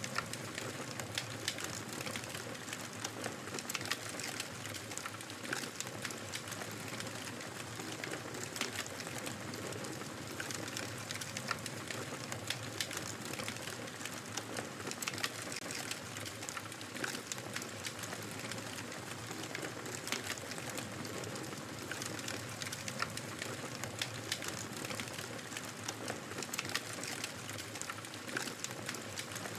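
Wood fire crackling in a fireplace: many small, irregular pops and snaps over a soft steady hiss.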